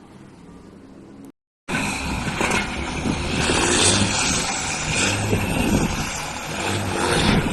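Diesel truck engine running loud after a short dropout to silence about a second in; before the dropout a quieter vehicle sound.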